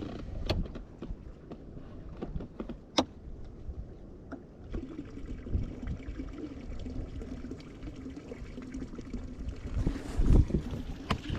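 A few sharp clicks and knocks of gear being handled aboard a small boat, over a low rumble of wind and water on the microphone. A faint steady hum sets in about five seconds in.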